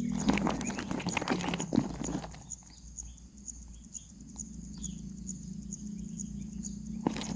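Irregular rustling and tapping for about two seconds, then fainter scattered taps over a steady low hum.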